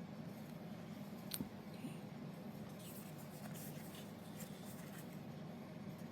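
Paper being handled while it is folded and pressed down: a single sharp tap about a second and a half in, then light rustling and scraping strokes of paper a few seconds later, over a low steady hum.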